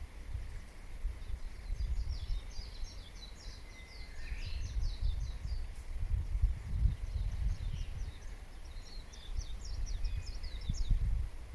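A small songbird singing two quick phrases of rapid, high, repeated chirping notes, the second a few seconds after the first. Underneath runs a louder, uneven low rumble of background noise.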